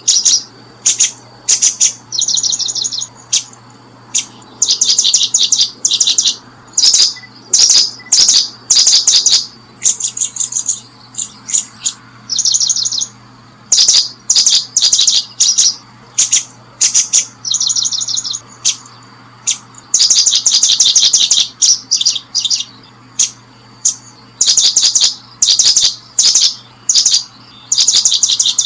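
Small birds chirping close by: rapid, high-pitched trills in short bursts of about half a second to a second, coming one after another every second or so.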